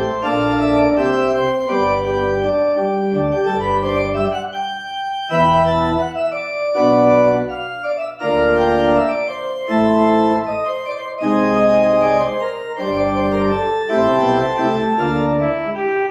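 Organ music: slow sustained chords over a low bass line, changing every second or so, with a brief lighter passage about five seconds in.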